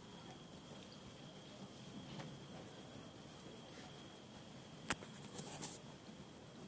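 Crickets chirping in repeated high pulses over a thin steady high tone, with a single sharp click about five seconds in.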